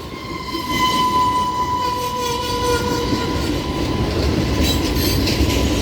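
Florida East Coast Railway freight train rolling through a switch into a siding: steady low rumble of the cars, a steady high-pitched squeal for the first few seconds, and rail clacks near the end.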